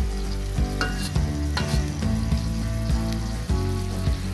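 Chicken pieces sizzling in a wok, over background music with a steady beat.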